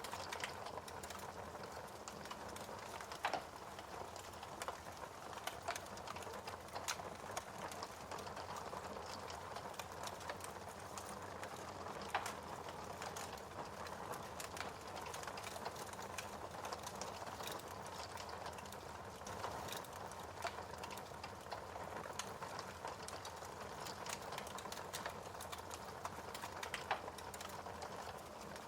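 Wood fire burning in a fireplace: a steady soft hiss with irregular sharp crackles and pops, a few of them louder than the rest.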